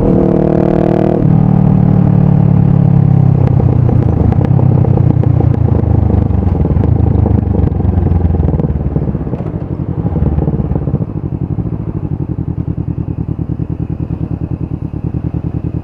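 Honda CBR500R's parallel-twin engine through a Yoshimura full exhaust: revving high at first, then falling gradually in pitch as the bike comes off the throttle. About eleven seconds in it drops quieter to an evenly pulsing idle.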